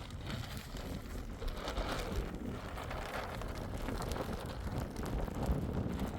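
Snowstorm wind buffeting the microphone: a steady low rumbling rush with scattered crackles.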